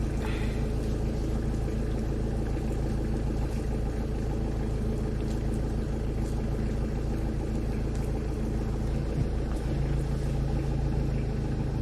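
Safari vehicle's engine running at low speed: a steady low drone whose tone shifts slightly about ten seconds in.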